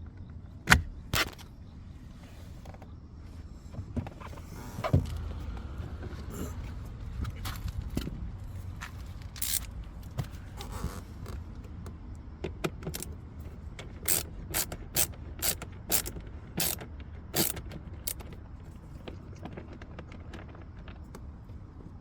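Hands and tools working on plastic parts under a car's dashboard: scattered sharp clicks, knocks and light scrapes, the loudest knock near the start, with a quick run of clicks about two-thirds of the way through.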